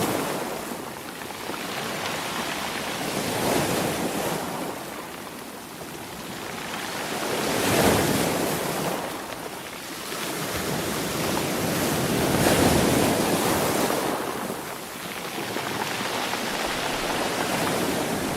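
Sea waves breaking and washing up on the shore, a steady rush that swells and falls back in slow surges about every four to five seconds.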